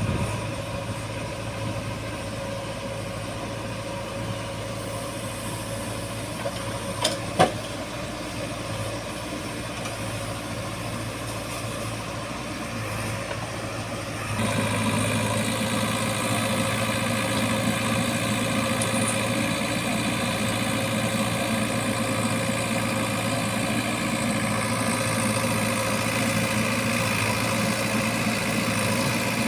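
Diesel engine of heavy farm or digging machinery running steadily at low revs. About fourteen seconds in it steps up louder and holds at the higher level. A couple of sharp clicks come about seven seconds in.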